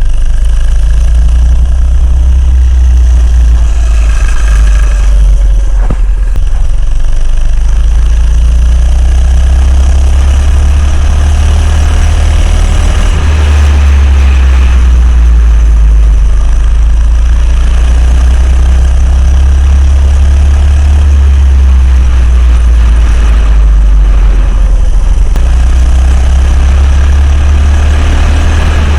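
Coleman CC100X minibike's 100cc engine running while being ridden, its pitch rising and falling slowly, under a heavy, loud low rumble.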